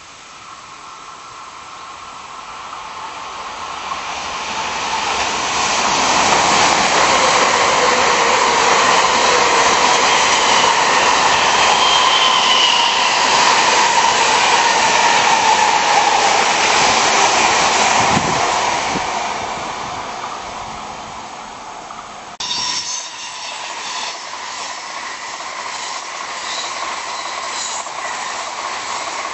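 Tokaido Shinkansen bullet train passing at speed: a rush of air and wheel noise builds, stays loud for about twelve seconds with a slowly falling tone, then fades. About 22 seconds in, a more rattling train noise cuts in abruptly and carries on.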